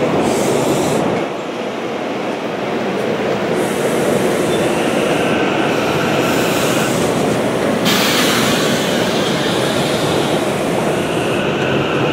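SEPTA Silverliner V electric multiple-unit train departing and running past, with a steady noise of wheels on the rails. The sound turns harsher and more hissing about eight seconds in.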